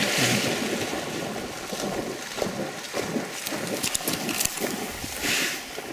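Splashing and rustling noise from a retriever dog working through marsh water and vegetation on a retrieve, with wind on the microphone. The noise is loudest at the start and fades, with a brief louder swell about five seconds in.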